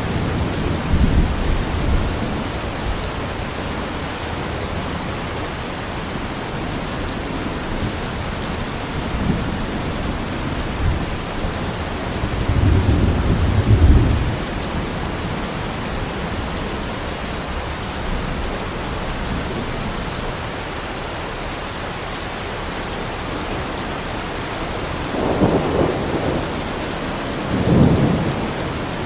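Steady heavy rain with distant thunder rumbling, swelling twice: once about halfway through and again near the end.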